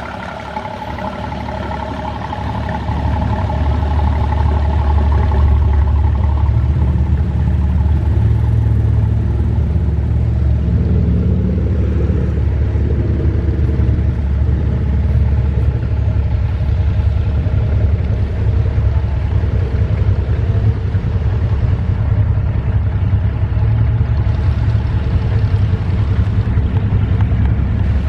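A motor vehicle's engine running close by, swelling over the first few seconds and then holding a steady low rumble.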